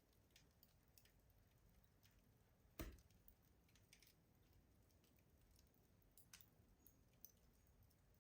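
Wood fire crackling faintly in a rustic stove: sparse small pops and ticks, with one louder pop about three seconds in.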